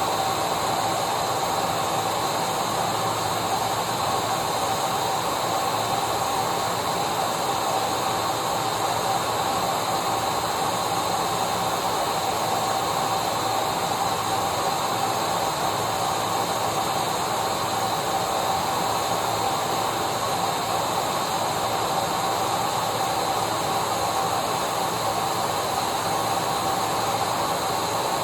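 Vacuum cleaner running steadily: a constant whooshing hiss of the motor and airflow with a steady whine, without change.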